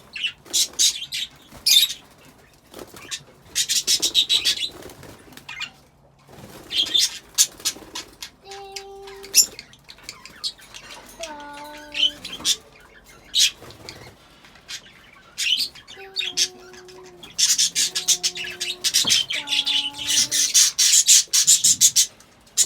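A flock of budgies chattering and warbling in scratchy high bursts, busiest near the start and again near the end, with a few short, flat, lower-pitched calls in the middle.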